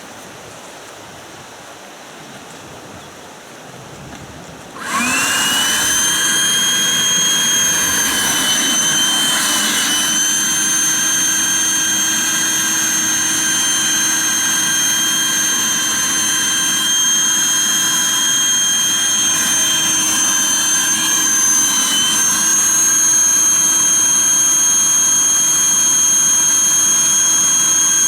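Electric air pump for an inflatable boat switched on about five seconds in, then running steadily with a loud high-pitched whine.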